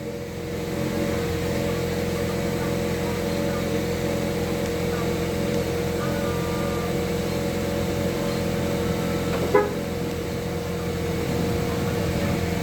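GAC GS3 Emzoom SUV running at a steady idle after being started by remote, a constant engine and fan hum. A single brief sharp chirp about nine and a half seconds in.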